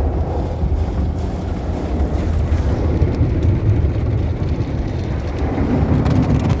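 Automatic car wash machinery running around the car, heard from inside the cabin as a loud, steady low rumble.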